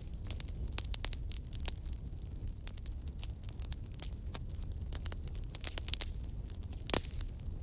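Wood fire burning, with frequent sharp crackles and pops over a steady low rumble; one louder pop about seven seconds in.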